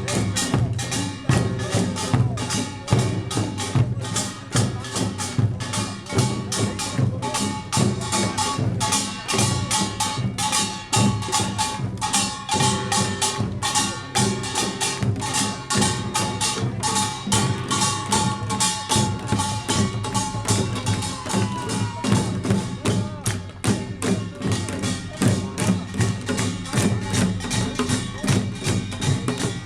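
Korean pungmul percussion band playing Jeolla Jwado farmers' music: kkwaenggwari small gongs clanging in fast, dense strokes over janggu and buk drums, with held gong tones ringing through.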